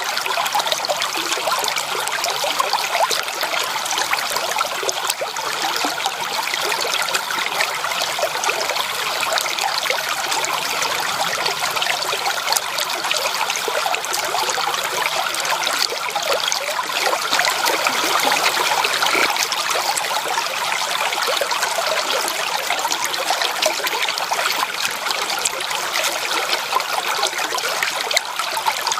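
Stream water flowing and splashing, a steady rushing, trickling sound with no pauses.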